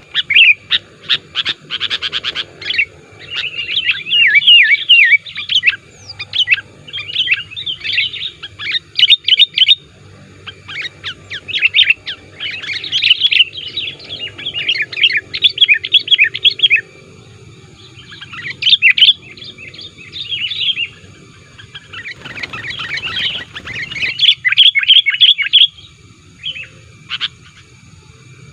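Sooty-headed bulbul (kutilang) calling in bouts of rapid, bubbly chattering notes, each bout a few seconds long with short pauses between. It is an active, challenging male chatter of the kind used to lure and provoke rival bulbuls.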